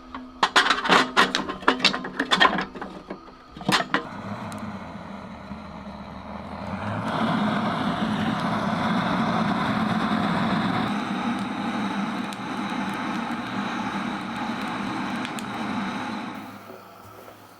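A wood-burning stove being lit: a quick run of sharp clicks and knocks, then a steady rushing noise that swells about seven seconds in and dies away near the end.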